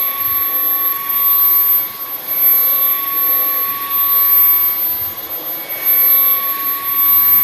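Bissell CleanView XR Pet cordless stick vacuum running, its motor giving a steady high whine as it is worked back and forth over a rug. The level swells and dips with the strokes, and the whine drops out briefly about five seconds in.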